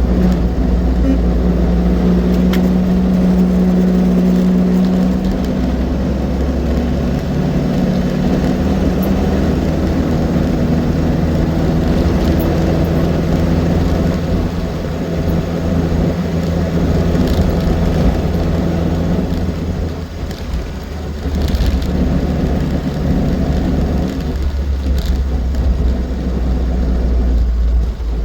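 Austin 7's four-cylinder side-valve engine running while the car is driven along the road, its pitch shifting a few times as the speed changes, with a brief drop in level about twenty seconds in.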